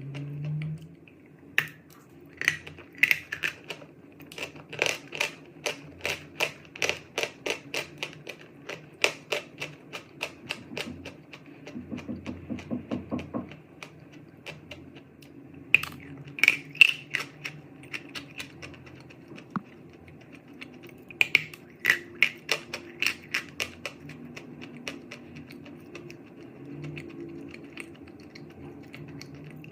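Chalk being bitten and chewed close up: crisp crunching cracks in several bursts, with quieter pauses between them.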